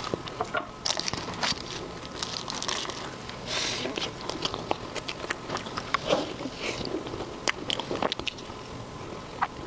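Close-miked eating: biting and chewing, an irregular run of short crunches and clicks.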